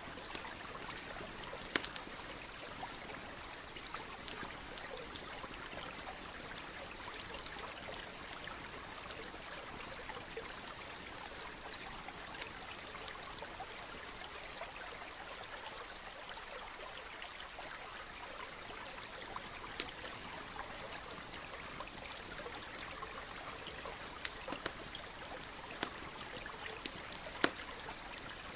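Campfire crackling, with irregular sharp pops and snaps, over the steady rush and trickle of a nearby stream.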